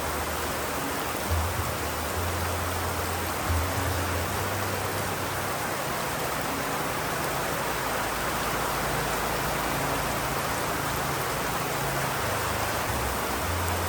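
Steady, even rain, with a low rumble coming and going underneath.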